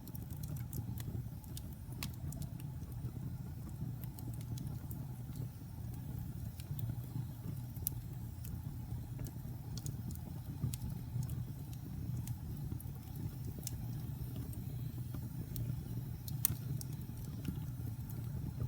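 Wood fire in a fireplace burning, with irregular crackles and pops over a low steady roar.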